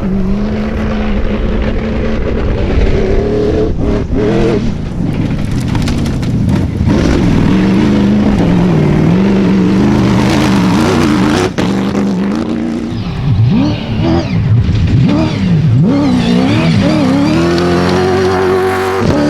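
Rally vehicles running flat out off-road: engines revving up and dropping back again and again, with vehicles passing close. Several sudden cuts from one vehicle to the next.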